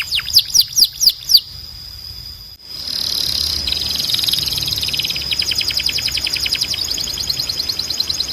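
Canary singing: a phrase of fast, high downward-sweeping whistled notes, about five a second, breaks off about a second and a half in. After a short lull, a new phrase starts about three seconds in: a held high whistle with a very rapid trill over it.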